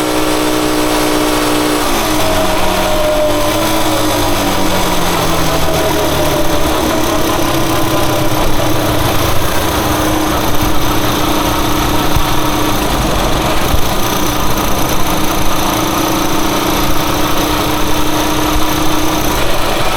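Rusi Chariot 175 motorcycle engine running on the road. A steady note for the first couple of seconds drops in pitch, then settles into a rougher, steady running sound.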